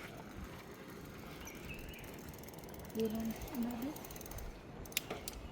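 Bicycle rear freewheel ratcheting in a rapid run of fine clicks as the wheel turns while coasting or back-pedalling. A brief hum-like voice sound comes about three seconds in, and two sharp clicks near the end.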